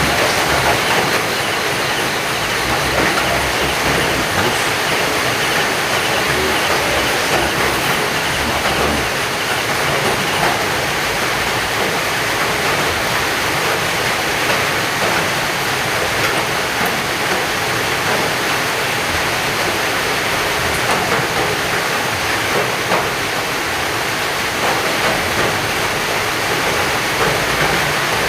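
Heavy rain pouring down steadily, a loud, even hiss of downpour with no let-up.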